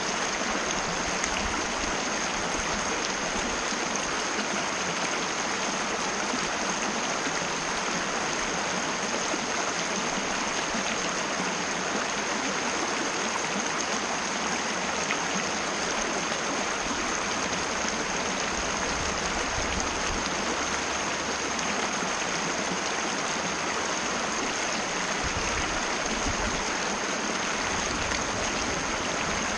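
Mountain river flowing: an even, steady rush of water.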